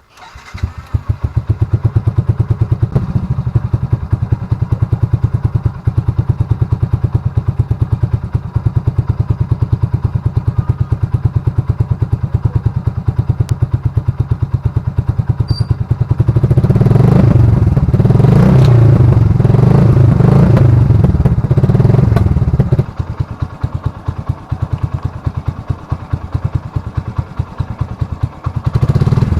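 An engine catching at the start and idling with a steady pulsing beat. About two-thirds of the way through it is revved up and down several times for some seconds, then settles back to idle.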